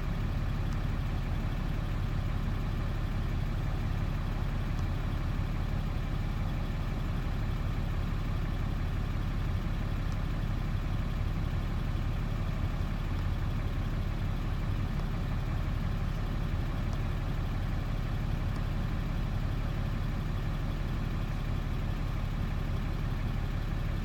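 2017 Dodge pickup truck's engine idling steadily, a constant low rumble heard from inside the cab.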